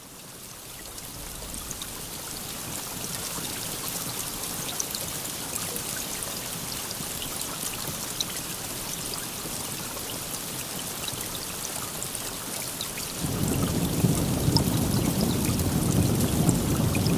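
Steady rain fading in over the first couple of seconds, with individual drops ticking through the hiss. About 13 seconds in, a low rumble of thunder joins and the whole sound grows louder.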